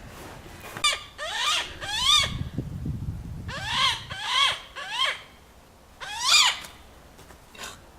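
Cooper's hawk giving about seven short, harsh, squealing calls in groups of two or three.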